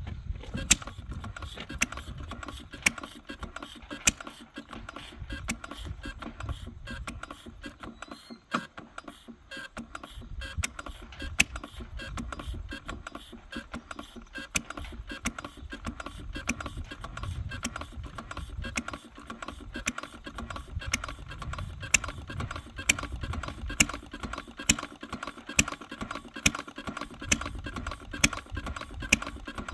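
Henry Ford 1893 single-cylinder gasoline engine running, a low rumble with a mechanical clatter and sharp firing pops. The pops are irregular at first and come more regularly later on. The engine is running again after five or six years unused.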